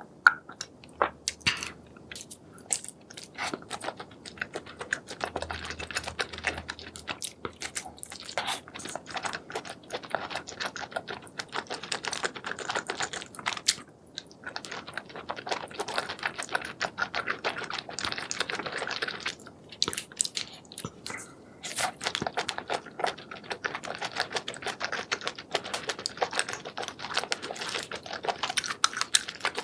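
Close-miked eating of spicy seafood: steady chewing and crunching with dense, rapid clicks and crackles, pausing briefly twice.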